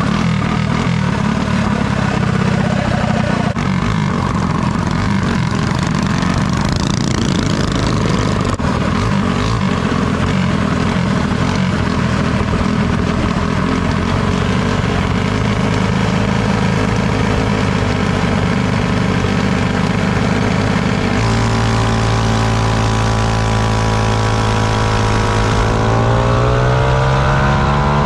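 Minibike engine running: a rough, uneven rumble for about twenty seconds, then one engine settles into a steady note, and near the end it is revved, its pitch rising.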